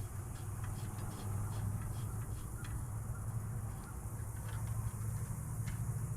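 Faint, scattered clicks and taps of metal fittings as the fuel injector line nuts on a Yanmar 1500 tractor's diesel are put back on by hand, over a steady low hum.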